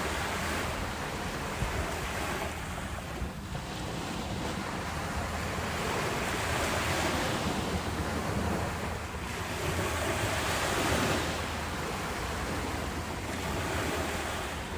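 Ocean surf washing in, swelling and easing in slow surges every few seconds, with no other sound over it.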